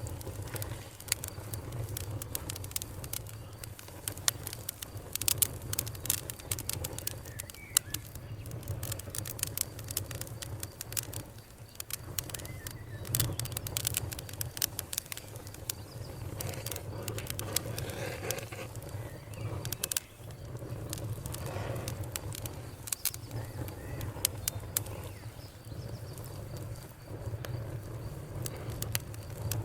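Fire crackling, with frequent irregular sharp pops and snaps over a steady low rumble.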